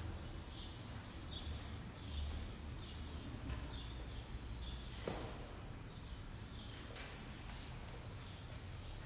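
A small bird chirping over and over, short falling chirps about twice a second, over a low steady hum, with a soft knock about five seconds in.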